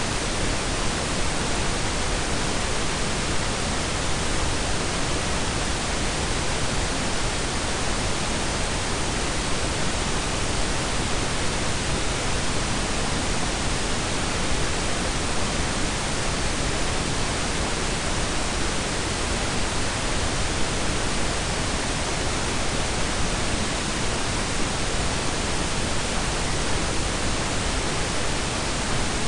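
Synthetic pink and brown noise blended together: a steady, even hiss with a deep rumble underneath, unchanging throughout.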